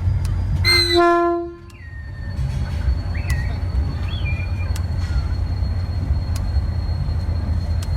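EMD GT22 diesel locomotive heard from the cab, its engine running with a steady low rumble. About a second in, a short single horn blast sounds for under a second, then the engine rumble carries on.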